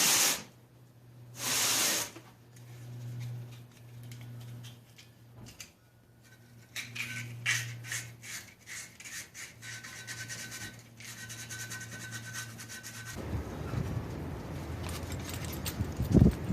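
Rubbing and scraping of hand cleaning work on engine parts, in irregular strokes over a steady low hum, opening with two loud rushing bursts. About thirteen seconds in the sound changes abruptly to a denser, steadier rushing noise.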